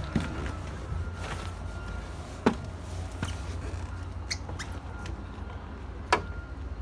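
Someone climbing into a semi-truck cab: about half a dozen sharp clicks and knocks from the door, handholds and steps, over a steady low rumble.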